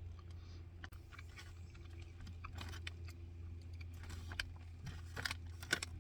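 Someone chewing a piece of beef jerky and handling its plastic bag: scattered soft clicks and crinkles over a steady low hum.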